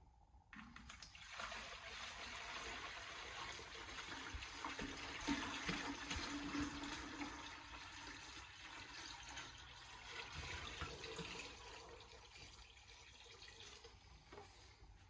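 Water running and pouring steadily into a container, starting about half a second in and tapering off near the end.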